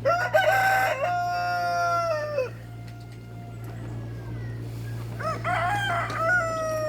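Rooster crowing twice: a long crow at the start that holds its pitch and drops away at the end, and a second crow starting about five seconds in.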